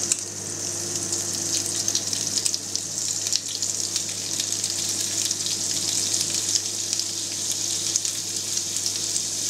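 Halloumi cheese slices sizzling on a hot ribbed grill pan, with a breaded piece frying in olive oil in a skillet beside it: a steady hiss with fine crackles over a low steady hum.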